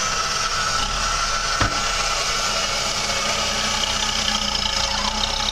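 Off-road 4x4's engine running steadily at low revs as the vehicle, bogged in sand, creeps out onto sand ladders under its wheels. A single sharp knock about a second and a half in.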